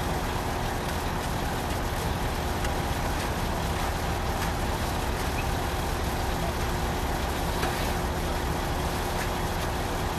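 Boom pump truck running steadily, a constant machine drone with a faint steady hum.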